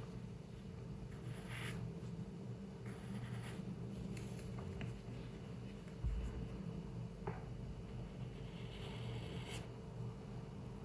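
Pencil strokes scratching on paper in short, irregular bursts, over a steady low room hum, with one soft low thump about six seconds in.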